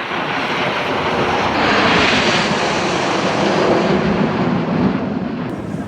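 Jet aircraft flying past: a loud engine noise that builds, is sharpest about two seconds in, then drops to a lower rumble as it moves away.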